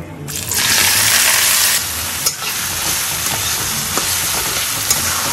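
Onions tipped into hot oil with whole spices, sizzling loudly as they hit, a moment in. The sizzle is strongest for the first second and a half, then settles into a steady frying sizzle while they are stirred, with a few light clicks.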